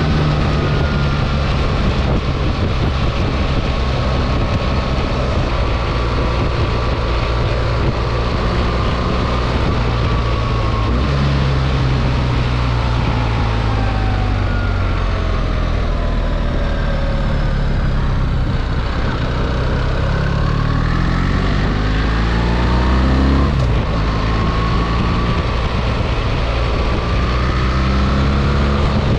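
BMW R 1300 GS boxer-twin engine running under way with wind rush. The engine note climbs and steps down at gear changes, once about eleven seconds in and again about twenty-three seconds in.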